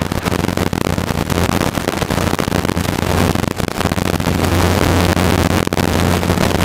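Helicopter cabin noise in flight: a steady low drone from the rotor and engine under a constant rushing noise with fine crackle.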